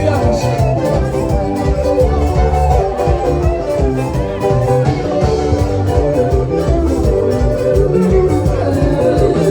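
Live band playing dance music with guitars and a steady beat.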